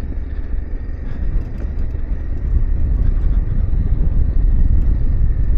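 Riding noise from a Yamaha Ténéré 700 parallel-twin adventure motorcycle on a dirt road: a steady low rumble of engine, tyres and wind, getting a little louder about halfway through.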